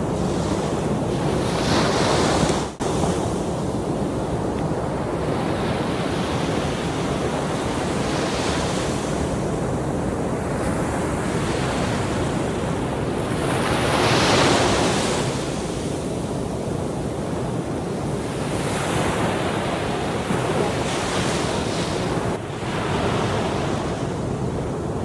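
Sea waves washing in on a shore, with wind buffeting the microphone. The surf swells louder about two seconds in and again around the middle.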